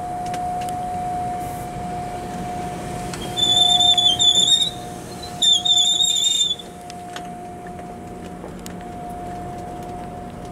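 GO Transit bilevel passenger coaches rolling slowly past as the train pulls into the station, with a steady hum and a constant mid-pitched tone. About three seconds in come two loud, high-pitched, wavering squeals from the wheels, each just over a second long, as the train slows.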